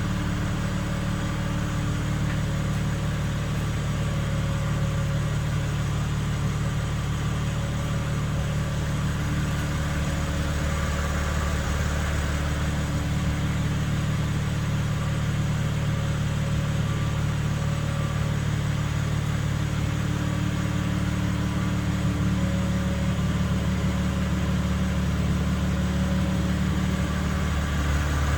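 BMW M3 with a steady low hum, the humming noise the owner is recording, while the car runs at a constant pace with no revving. Fainter higher tones fade in and out over the hum.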